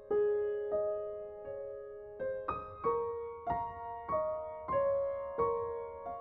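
Background music: slow, gentle solo piano, single notes struck about every half second and left to ring and fade.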